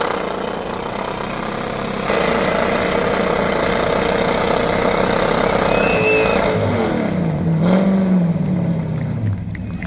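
Muscle car engine held at high revs during a burnout, with a dense wash of noise over it. From about six and a half seconds in, the revs drop, blip back up and fall away again as the burnout winds down.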